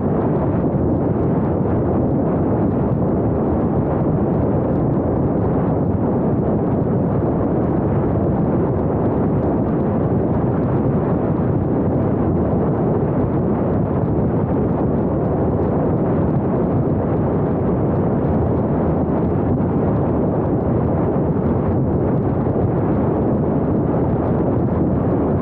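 Steady rumble of wind buffeting the camera's microphone, mixed with the road noise of a moving vehicle. It stays even throughout, with no engine note or other distinct sound standing out.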